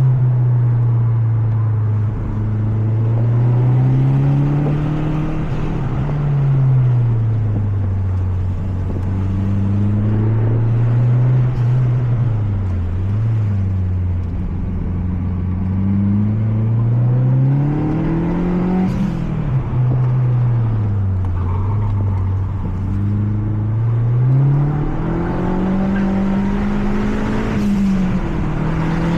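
Mazda 3 MPS turbocharged 2.3-litre four-cylinder heard from inside the cabin on a track lap, its note repeatedly climbing under acceleration and then dropping away. There are higher peaks about 19 seconds in and again near the end.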